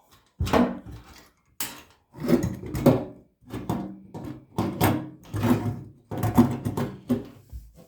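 Metal hardware and parts being handled and set down on a workbench: an irregular string of about a dozen clunks and clatters.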